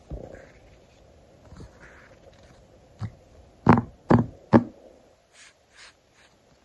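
Close-up handling of stickers and paper: light rustling and scraping, with three soft thumps in quick succession a little past halfway, then a few faint swishes.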